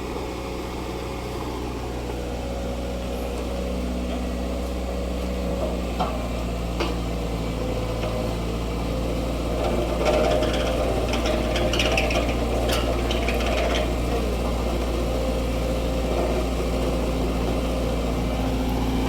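An engine running steadily, with a few knocks and a stretch of clattering and scraping about halfway through.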